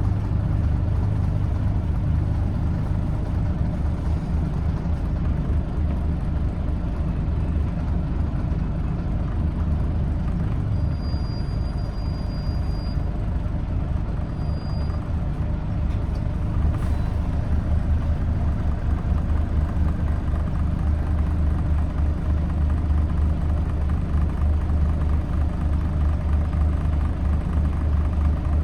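Scania N94UD Omnidekka double-decker's five-cylinder diesel engine heard from inside the bus, running with a steady deep hum that grows stronger a little past halfway. A faint high tone sounds briefly twice near the middle.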